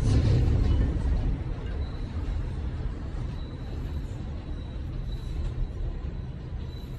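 Passenger train rumbling on the rails as it pulls out of the station, fading as it draws away. A faint thin high whine sits over the rumble from about two seconds in.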